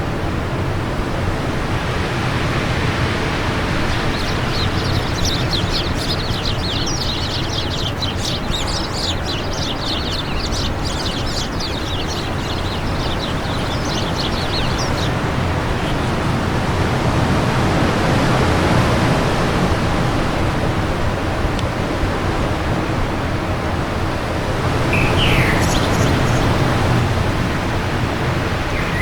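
Steady wind blowing, with a small bird twittering in a fast run of high chirps for about ten seconds from about four seconds in, and a few short chirps near the end.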